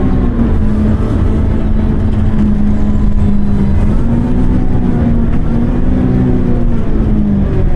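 City bus running, heard from inside the passenger cabin: a steady low rumble with a droning hum whose pitch shifts slightly partway through and drops out near the end.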